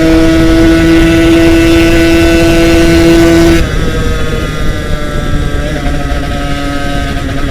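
Yamaha RX-King two-stroke single-cylinder motorcycle engine running at high revs under way. Its steady note drops suddenly in pitch and loudness about three and a half seconds in, then carries on lower and slowly climbs again.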